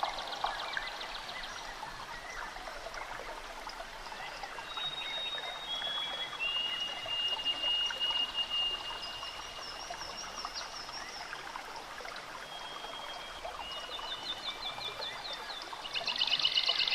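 Forest birds singing: long, thin held whistles and rapid high trills over a steady hiss like running water. A louder trill comes in near the end.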